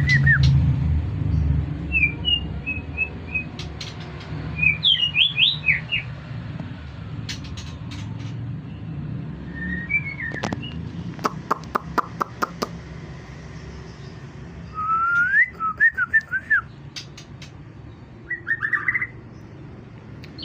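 A murai batu (white-rumped shama) singing in short bursts of clear whistled phrases with pauses between them. About eleven seconds in there is a quick run of sharp clicks. A low background rumble fades out early on.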